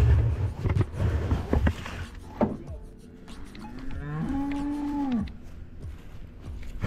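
One of the cattle mooing once, a call of about a second that rises at the start and drops away at the end. Before it there are a couple of seconds of low rumbling noise with knocks, and a sharp knock comes at the very end.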